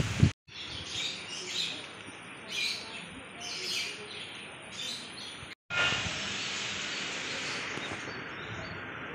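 Small birds chirping in repeated short high calls for the first five seconds or so. After a brief break the chirps give way to a steady outdoor hiss.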